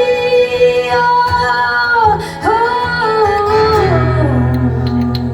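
Woman's voice singing long, wordless held notes that slide and bend, over a guitar band's sustained chords, as a song winds to its close live. Near the end the voice falls to a lower held note and the music softens.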